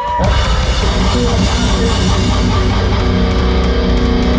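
A live heavy rock band playing loud: distorted electric guitars over bass and drums, with the full band crashing in just after the start.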